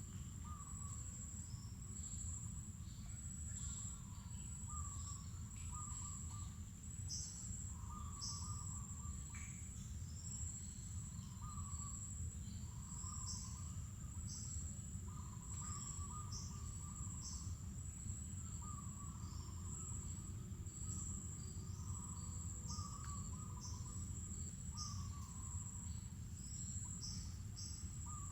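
Mangrove forest ambience: a steady, high-pitched insect buzz, with short bird chirps and lower chattering calls repeating every second or two, over a low background rumble.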